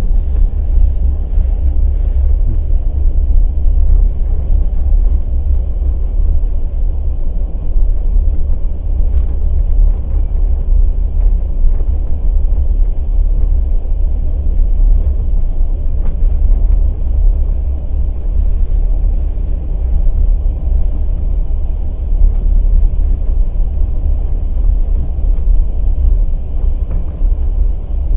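Night express passenger train running on the rails: a steady, loud, low rumble of the wheels and running gear, with a few faint knocks of wheel clatter.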